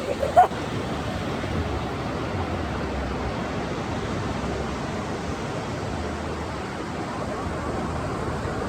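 Steady rushing wash of ocean surf on a beach. A brief, short sound is heard about half a second in.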